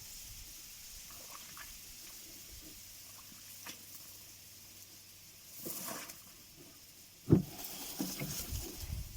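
Quiet handling noises in a small boat on the water: a faint hiss, a short rustling swell about six seconds in, a sharp thump a little after seven seconds, then irregular knocking and rustling.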